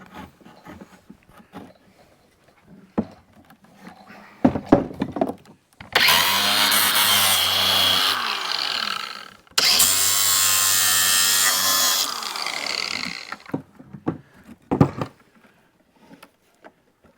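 Impact wrench run twice, about three seconds each with a short gap between, its motor pitch falling as it winds down at the end of each run, while backing screws out of the dock boards. A few light knocks of handling wood before and after.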